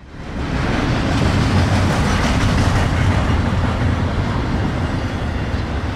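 BNSF double-stack intermodal freight train's well cars rolling past at speed: a steady rumble of steel wheels on the rails, rising in at the start.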